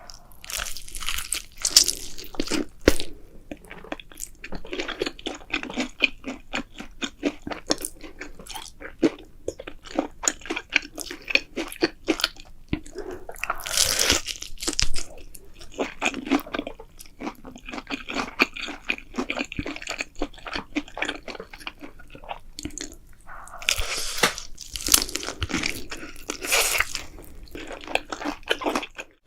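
Close-up chewing of crunchy food: a dense, crackling run of bites and crunches, with louder bursts of crunching about halfway through and again near the end.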